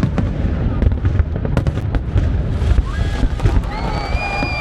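Fireworks going off in quick succession: a dense run of sharp cracks and bangs over a continuous low rumble. Near the end, people's held calls or cheers rise above the bangs.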